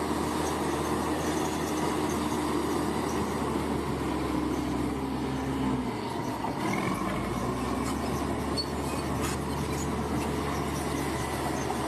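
Bulldozer diesel engine running steadily; its low note dips briefly about halfway through, then picks up again.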